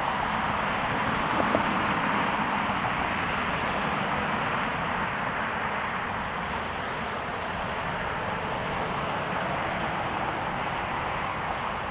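Steady noise of jet airliner engines, fading slowly toward the end.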